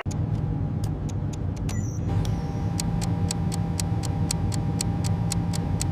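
Steady low machine hum with a fast, even ticking of about four ticks a second that sets in about two seconds in, over a faint steady tone.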